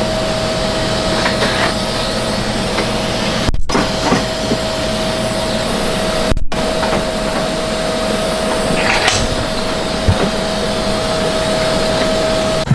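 Steady whirring hiss of a shop power tool running, with a constant whining tone through it. It cuts off abruptly twice for an instant.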